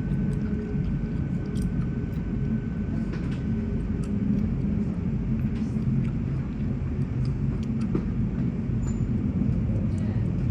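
Interior of an electric commuter train running: a steady low rumble, with a thin high whine that fades out a few seconds in and a few light clicks.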